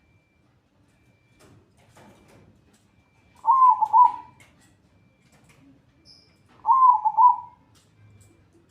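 Zebra dove (perkutut) cooing: two short warbling coo phrases about three seconds apart, each a quick run of rising and falling notes.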